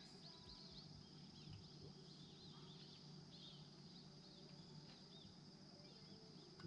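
Very faint bird chirps: many short, high, arched notes repeated through the quiet, over a steady faint high-pitched tone and a low hum.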